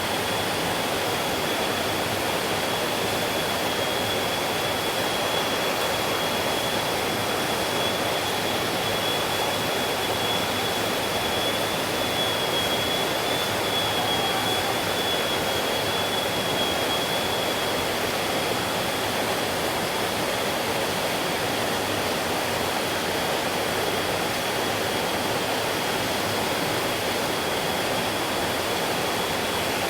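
Stream water rushing, a steady, even noise that does not change, with a thin, steady high-pitched tone running above it.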